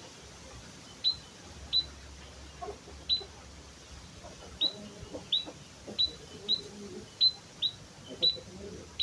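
White-headed munia (emprit kaji) giving its own plain call: a string of short, sharp, high chirps, each a quick downward stroke. They are spaced irregularly and come more often in the second half.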